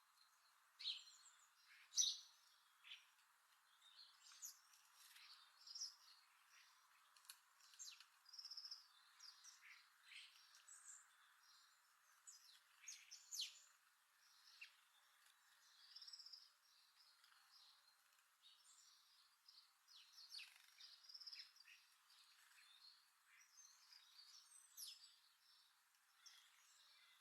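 Birds chirping: many short, faint, high calls scattered irregularly over a light steady hiss.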